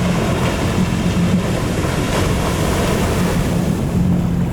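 Ocean surf rushing and wind buffeting the microphone, the rush swelling about two seconds in, over the steady low hum of an idling boat engine.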